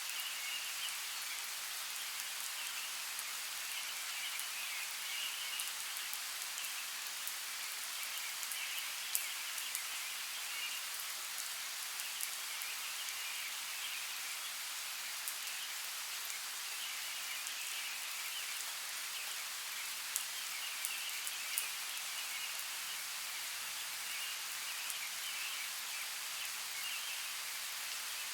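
Steady rain falling, with scattered sharper drips. A higher, pulsing chorus comes and goes behind it.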